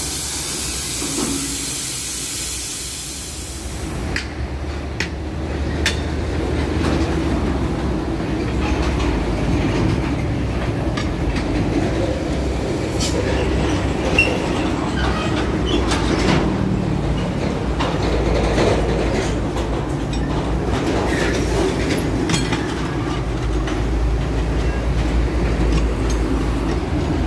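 Compressed air hissing steadily, cutting off suddenly about four seconds in. Then a steady low mechanical rumble with scattered metallic clanks and knocks, as heavy truck equipment runs.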